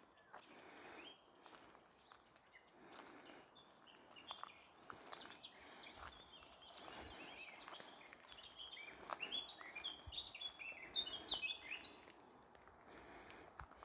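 Small woodland birds chirping and twittering, many short rapid calls that grow denser and louder through the middle, over faint footsteps crunching on a gravel path.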